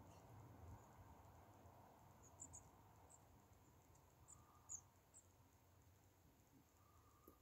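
Faint, scattered high-pitched chirps of small garden birds, tits, calling a few times a second over near silence.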